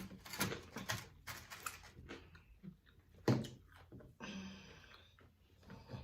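Sounds of eating at a table: a run of small clicks, taps and rustles from handling food and its packaging, with one sharp knock about three seconds in. Just after four seconds comes a short pitched sound, like a brief hum.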